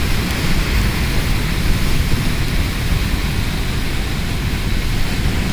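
Steady rush of wind and road noise on the microphone while riding a 1997 Honda CBR900RR Fireblade at speed, the bike's engine buried under a loud, even haze.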